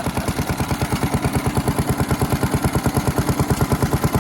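Small antique engine running steadily, with even beats of about ten a second, driving a plunger water pump. The plunger is stroking but the pump lacks the suction to draw water, a sign of worn or dried leather packing.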